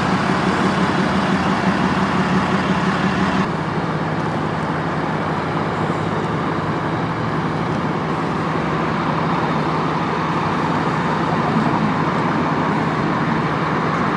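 Steady road traffic noise on a busy boulevard, with a low vehicle engine drone underneath. The sound drops a little about three and a half seconds in and stays even after that.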